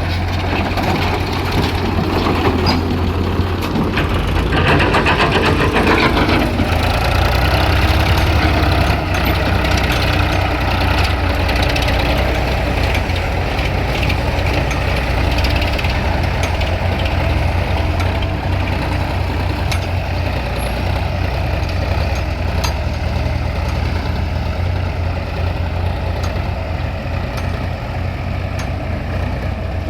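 Diesel tractor engine running steadily, a little louder between about four and nine seconds in.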